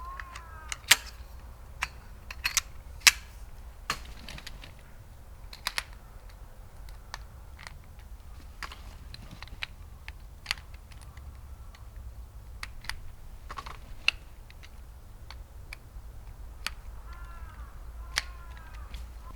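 Scattered sharp clicks and taps at an uneven pace, roughly one a second, some much louder than others, over a faint steady low background.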